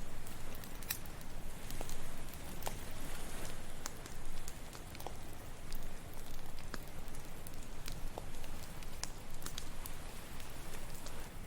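Campfire crackling, with irregular sharp pops about once a second, over a steady wash of ocean waves.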